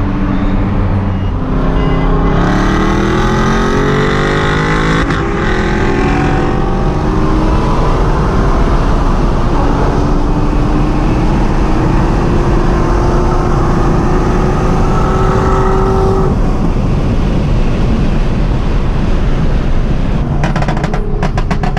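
Car engine heard from inside the cabin pulling hard at full throttle in a street race. Its note climbs steeply from about two seconds in, drops at a gear change about five seconds in, then climbs slowly through a long high-speed pull. About sixteen seconds in the engine note drops out as the throttle is lifted, leaving loud wind and road noise.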